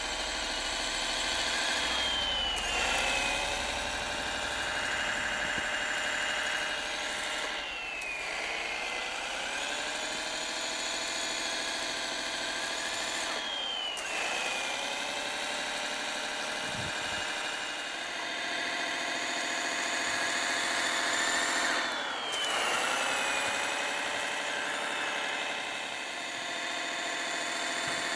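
Servonaut SMX sound module in a Kyosho Blizzard RC snow groomer playing a simulated diesel engine through its speaker. The engine note dips and climbs back in pitch about four times, each dip joined by a higher whine sweeping down.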